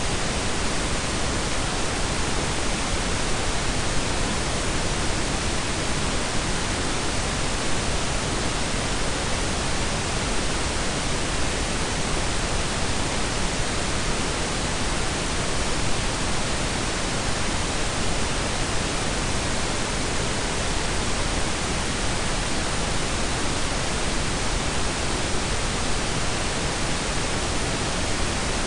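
Blended pink and brown noise: a steady, even hiss with no change in level or character.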